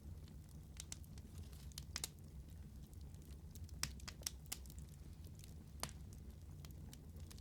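Wood fire burning in a fireplace, a steady low rumble of flames with scattered sharp crackles and pops, the loudest pops coming about two, four and six seconds in.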